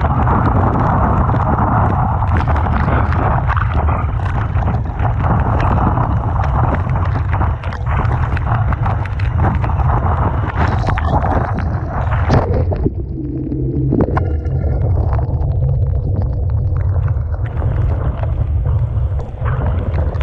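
Typhoon-force wind buffeting the microphone with a heavy, steady low rumble, over the hiss and crash of storm surf breaking on the shore, with many sharp splashes and knocks. The surf eases a little about two-thirds of the way through, then builds again.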